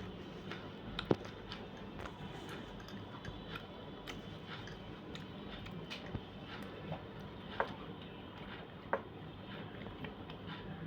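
A person chewing food, with many small clicks and three sharper clicks about a second in, at about seven and a half seconds and near nine seconds.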